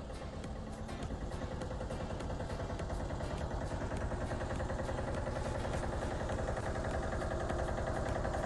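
An engine running steadily with a fast even pulse, getting gradually louder.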